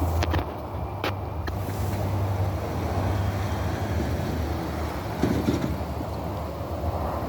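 A steady low rumble, with a few short clicks near the start.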